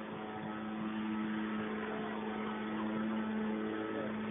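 A steady machine hum with one constant low tone and fainter overtones above it.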